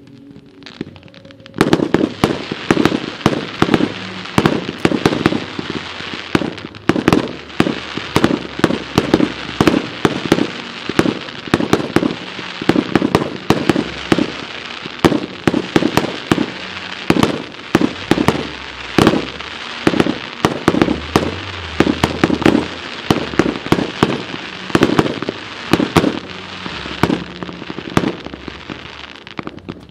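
Fireworks barrage: a dense, irregular string of bangs and crackles, several a second, that starts suddenly about a second and a half in and keeps going.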